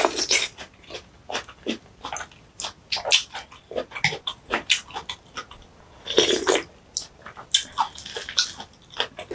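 Close-miked eating sounds: wet chewing and mouth smacks on a mouthful of kimchi bibimbap, a quick irregular run of small clicks, with a louder burst about six seconds in.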